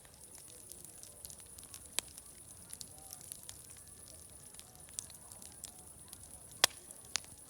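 Wood fire crackling, with scattered sharp pops over a steady hiss; the loudest pop comes near the end, with another just after it. Faint distant crowd chatter murmurs underneath.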